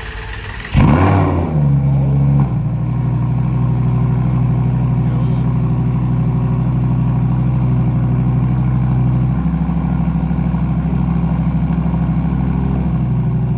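Supercar engine starting about a second in with a sharp rev flare, holding a fast idle for a moment, then dropping at around two and a half seconds into a steady loud idle. The owner says the car has a ripped exhaust.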